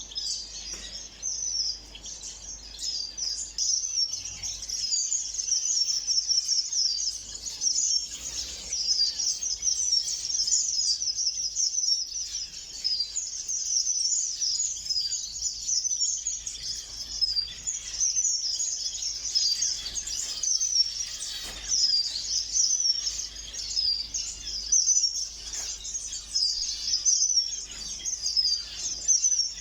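A flock of small ornamental aviary birds chirping and chattering at once, a dense, high-pitched twittering that never pauses.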